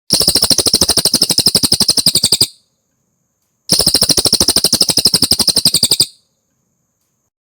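Cililin bird song: two loud bursts of a fast, even trill of rapidly repeated high notes, about fifteen a second, each lasting about two and a half seconds, with a pause of about a second between them.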